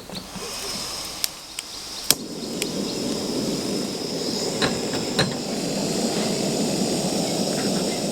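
Camp-kitchen breakfast preparation: several sharp clicks and taps of utensils against cookware, and from about two seconds in a steady rushing noise that slowly grows louder. A thin high insect-like whine runs underneath.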